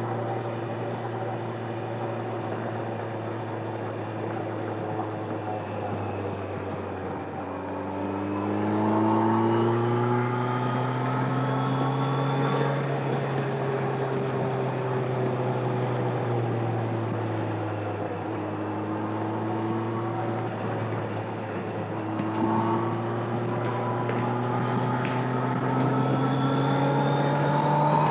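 A stock 2025 Kawasaki Z900's inline-four engine and exhaust under way at road speed, with road and wind noise. It is pulled up in revs about a third of the way in, eases off slowly through the middle, then pulls up again in the last third.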